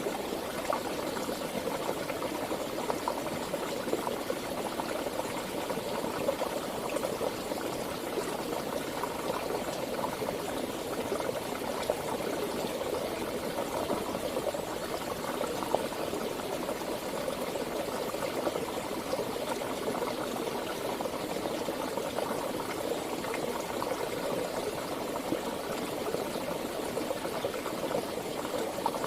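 Running water flowing steadily, with small splashes and gurgles throughout.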